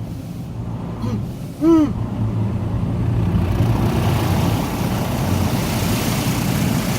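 Car wash spray jets hissing against the car, building up about three seconds in and staying loud, over the car's engine idling. A short high voice-like cry rises and falls once about two seconds in.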